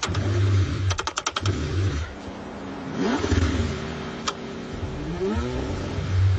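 A car engine being cranked in the cold, struggling to start. There are uneven low surges, a quick run of sharp clicks about a second in, and the pitch sweeps upward twice as it briefly catches.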